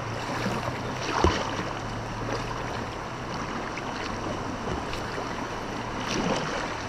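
River whitewater rushing steadily around a kayak, with a few short splashes or knocks, the sharpest about a second in.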